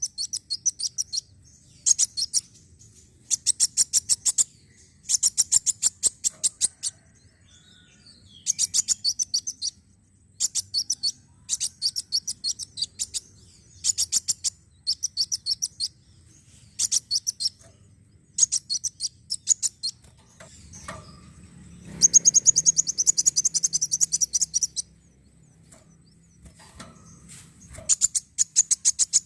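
Kolibri wulung sunbird song: bursts of rapid, high-pitched chittering trills, each about a second long and repeated every second or two. A longer, louder burst of about three seconds comes near the end.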